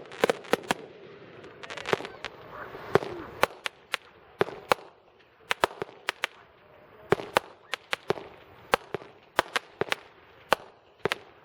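Consumer fireworks going off: dozens of sharp cracks and pops at irregular intervals, with a fizzing hiss and a whistle in the first few seconds, then sparser pops with short gaps between them.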